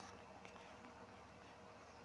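Near silence: faint background hiss with a couple of faint clicks.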